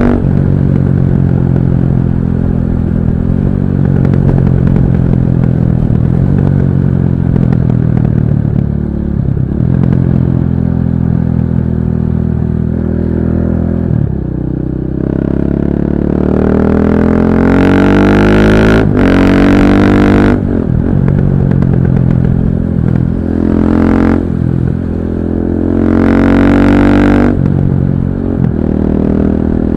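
KTM 640 LC4 supermoto's single-cylinder four-stroke engine running under way, the revs climbing in pitch through the gears in the second half with short breaks between pulls. The sound is dull and muffled, with no wind noise.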